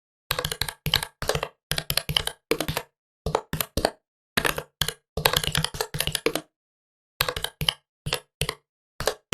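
Typing on a Huawei Matebook 13 laptop keyboard: quick flurries of keystrokes, each a few clicks long, broken by short pauses.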